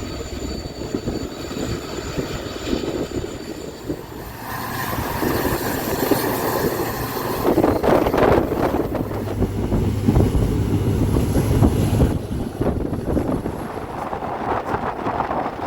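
Diesel-hauled passenger train running: a steady rumble and rattle that swells about four seconds in and eases near the end.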